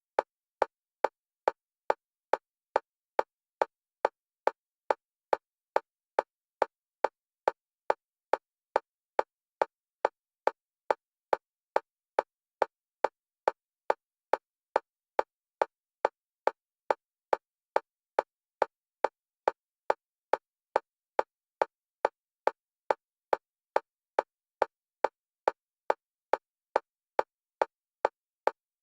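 Fast electronic metronome clicks for EMDR bilateral stimulation, one pitch, alternating between left and right channels. Short, even clicks at about two a second, all the same loudness.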